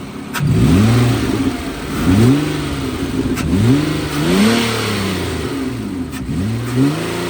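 2008 Nissan Altima's 3.5-litre V6 revved in a series of quick throttle blips, the pitch rising and falling back each time, running smoothly.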